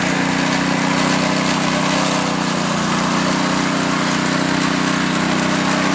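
Small petrol engine of a concrete power trowel running steadily at a constant speed.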